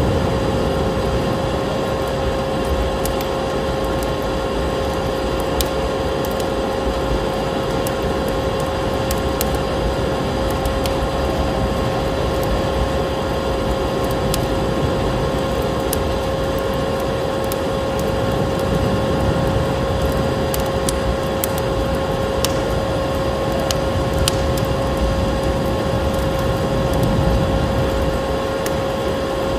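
A wood fire crackling with scattered sharp pops, layered over a steady rushing noise with a constant motor whine, like a vacuum cleaner running, mixed with storm wind.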